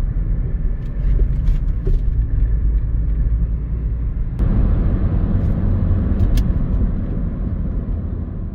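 A car on the move: a steady, loud low rumble of engine and road noise.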